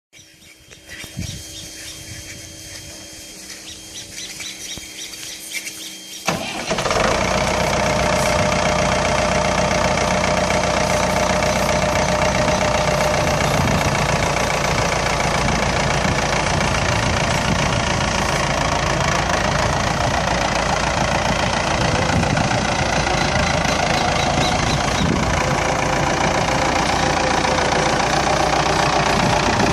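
Ford 7610 Series II tractor's diesel engine starting. It cranks quietly and unevenly for about six seconds, catches suddenly, then runs steadily.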